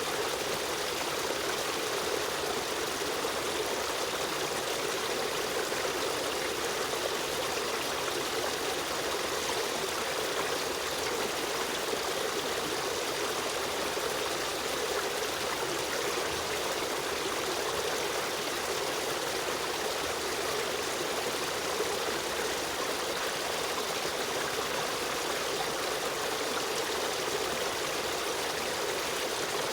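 A running stream, its water rushing and trickling steadily.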